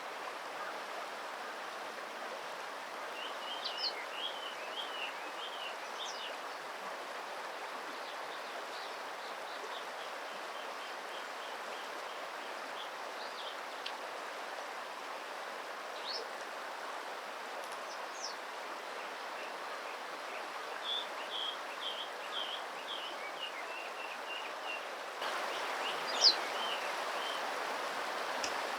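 Steady rush of flowing stream water with small birds chirping over it: two runs of short high chirps and a few quick rising calls, the sharpest near the end. The water noise grows a little louder near the end.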